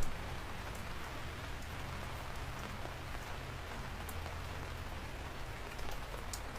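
Steady rain falling: an even hiss with scattered sharper drop ticks and a low rumble underneath, with one louder tap right at the start.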